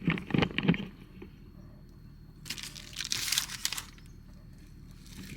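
A crinkling rustle of something like plastic or packaging, lasting about a second near the middle, after a moment of voices at the start.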